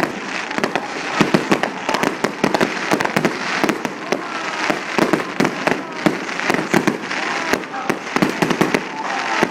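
Many fireworks going off at once across a city: a constant crackle and rumble of distant bangs, several a second, with now and then the faint rising whistle of a rocket.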